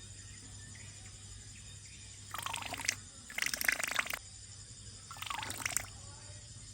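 Water splashing in three short bursts, a couple of seconds in, around four seconds and near the end.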